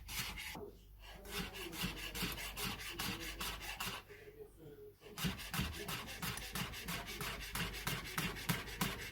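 Kitchen knife slicing spring onions thinly on a chopping board: quick, even cuts about four a second, broken by two short pauses.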